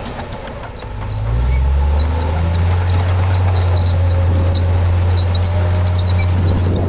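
Heavy diesel engine of an earthmoving machine running. The sound dips at the start, picks back up after about a second and then runs steady and deep.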